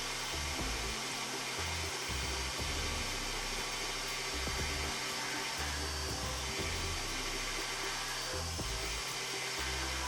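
Woodworking milling tool's electric motor running steadily, over background music with a changing bass line.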